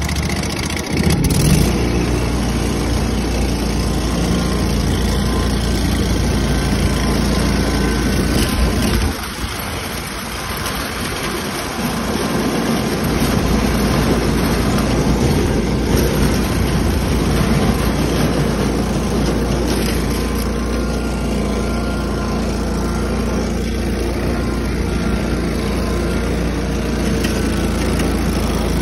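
Tractor engine running with a steady low drone, dropping in level for a few seconds about nine seconds in before picking back up.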